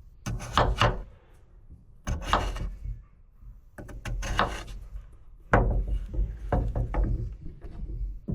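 Knocking and clattering: four clusters of quick, sharp strikes, each lasting under a second to about two seconds.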